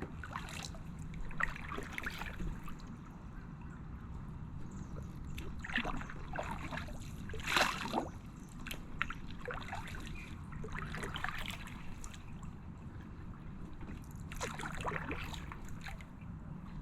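Kayak paddle blades dipping into calm water, with splashes and dripping at irregular strokes a few seconds apart, the strongest splash about halfway through, over a steady low rumble.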